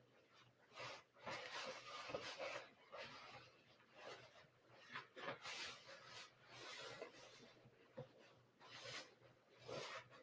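Faint rustling and rubbing of an isolation gown's fabric being handled and adjusted, in irregular bursts.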